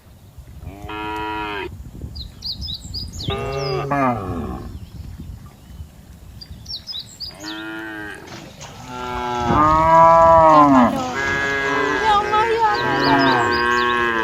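Cattle mooing: a series of long calls, one after another, growing louder and overlapping in the second half. Faint short high chirps come between some of the calls.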